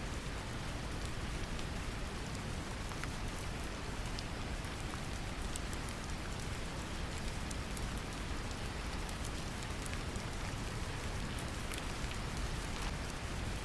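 Steady deep brown noise mixed with gentle rain, with scattered small drop ticks throughout.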